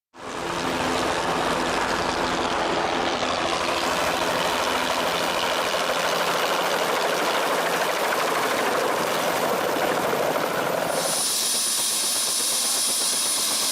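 Engine running steadily, loud and unbroken, with a low hum under a wash of noise; about eleven seconds in the sound changes to a high hiss with a thin high whine.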